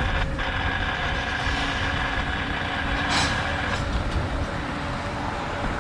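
Freight train rolling through, a steady low rumble with faint high-pitched steady tones over the first half or so, and a short hiss about three seconds in. Wind buffets the microphone.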